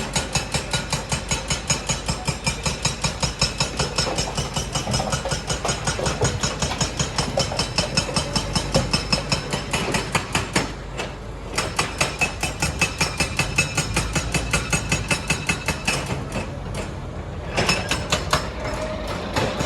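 Rock-crushing machinery pounding stone in a fast, even rhythm of about five sharp blows a second over a low engine rumble, stopping briefly twice.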